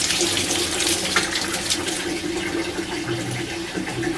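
Water running and splashing onto a shower floor over a slow, partly clogged floor drain, with a faint steady hum underneath.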